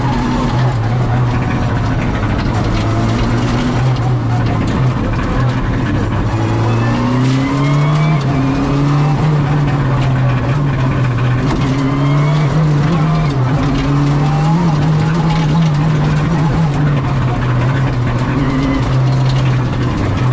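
Rally car's engine heard from inside the cabin, driven hard on a stage. The revs climb and drop again and again as the driver shifts up and down through the sequential gearbox.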